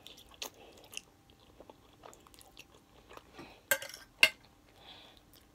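Close-miked chewing of a mouthful of creamy crawfish and shrimp fettuccine: soft wet mouth smacks and small clicks. A few louder, sharp clicks come about four seconds in.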